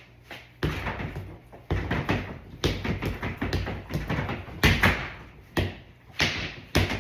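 A series of sharp, heavy thumps, roughly one a second, each dying away quickly.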